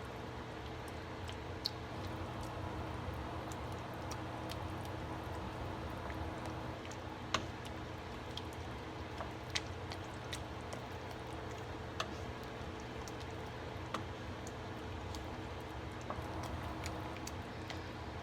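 A spoon stirring cheese into a thick ground-beef and tomato filling in a pot, with irregular sharp clicks of the spoon against the pan over a steady low hum.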